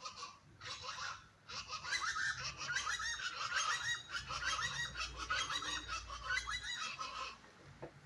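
A flock of birds calling, many short calls in quick overlapping succession, loudest from about a second and a half in until near the end.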